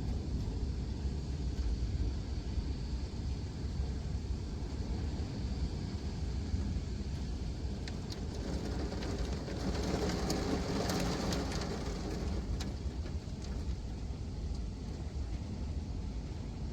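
Steady wind and rain noise with a low rumble. A vehicle passes on the wet road, swelling from about nine seconds in and fading by about twelve.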